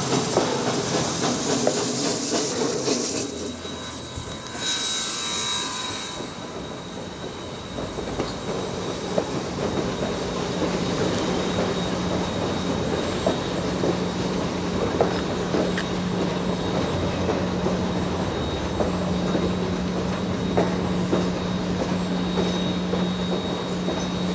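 A train rolling past: wheels clicking over rail joints, a brief high wheel squeal about five seconds in, and a steady low hum under the rolling noise from about eight seconds on. It opens with a loud hissing rush that dies down after about three seconds.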